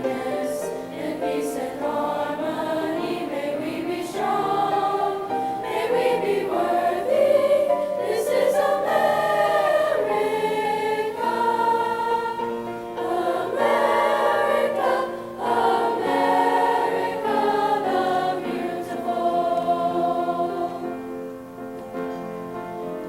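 A school choir singing, the voices dying away near the end.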